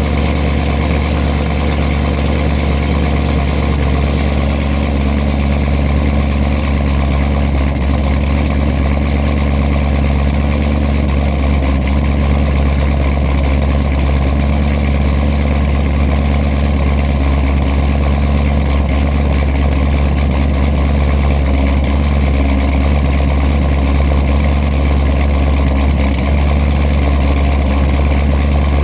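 Supercharged Corvette V8 idling after a cold start, with the choppy, loping idle of an aggressive camshaft. The level stays steady, with no revving.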